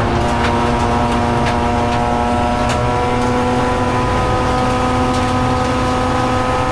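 Mazda RX-8 race car's two-rotor rotary engine held at high revs under load, its pitch creeping slowly upward.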